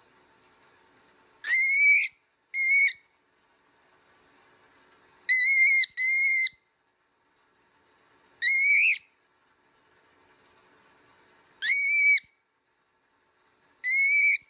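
A parrot giving short, high whistled calls, seven in all, each about half a second long. Some come singly and some in quick pairs, with gaps of one to three seconds between them.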